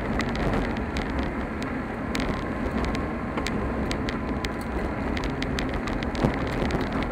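Car driving along a road: a steady rumble of tyres and engine, with frequent small ticks and rattles and one louder knock about six seconds in.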